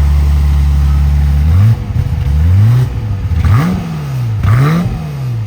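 Car engine held at steady revs, then revved repeatedly, its pitch rising and falling about five times.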